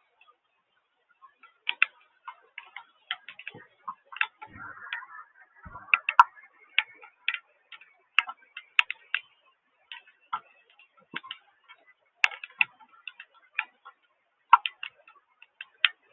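Raindrops striking a hard surface close to the microphone: irregular sharp ticks, often several a second in loose clusters, with short gaps between.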